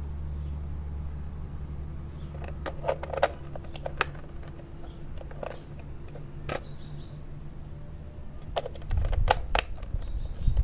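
Scattered sharp clicks and knocks, like a plastic toy being handled, the loudest cluster near the end. A steady low hum runs underneath at first and stops about three and a half seconds in.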